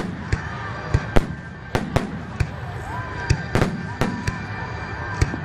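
Fireworks exploding in a rapid finale barrage: sharp bangs at irregular intervals, about three a second, recorded on a mobile phone.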